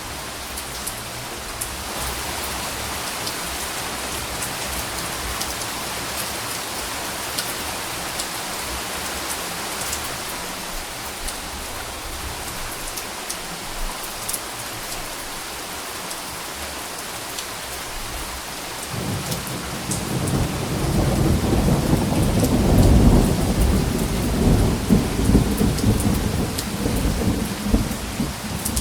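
Steady rain falling, an even hiss with scattered drop ticks. About two-thirds of the way in, a long low rumble of thunder builds, is loudest a few seconds later, and keeps rolling under the rain.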